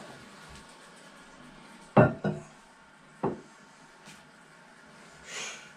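Porcelain toilet tank lid being set onto the tank: two hard clunks about two seconds in and a third about a second later, then a short rustle near the end.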